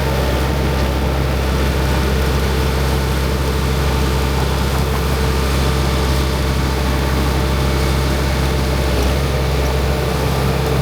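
Diesel engine of a grape harvester running at a steady speed, heard as a constant low drone from inside the cab.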